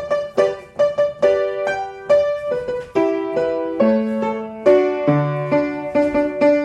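Piano playing the accompaniment for a battement frappé exercise at the ballet barre: quick, crisply struck notes for the first few seconds, then longer held notes and chords.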